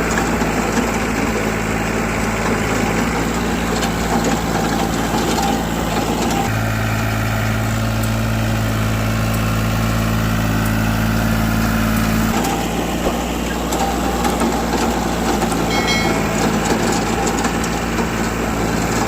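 New Holland tractor's diesel engine running steadily, its note changing about six seconds in and changing back about twelve seconds in.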